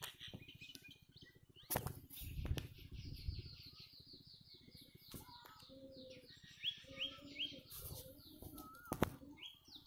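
Small birds calling in the trees: a long run of quick repeated high chirps, then three short rising notes about seven seconds in. A couple of sharp knocks stand out, near the start and near the end.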